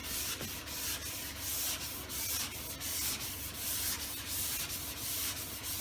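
400-grit sandpaper on a hand sanding block rubbing over a car door panel in repeated back-and-forth strokes, a dry scratchy hiss that rises and falls with each stroke. This is finish block-sanding to take out coarser 180-grit scratches before sealer or paint.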